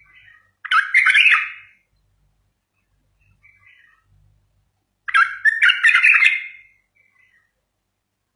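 A bulbul singing: two loud, warbling phrases of about a second each, a few seconds apart, with a few soft short calls between them.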